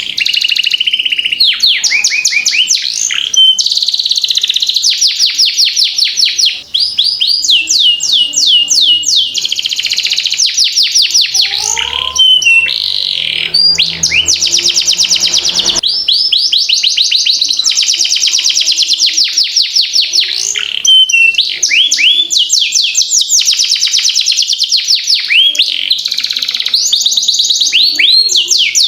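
Domestic canary singing continuously in long rolling trills: runs of fast, rapidly repeated notes, changing from one trill to the next with only brief pauses.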